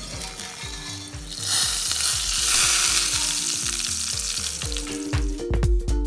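Stuffed green chillies frying in oil in a stainless steel pan. A loud sizzle swells about a second and a half in, once the lid is off, and eases near the end.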